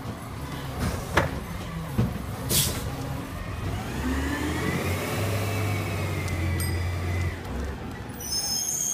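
Recycling garbage truck at work: a few knocks and a short air hiss, then its engine revs up and back down over about three seconds.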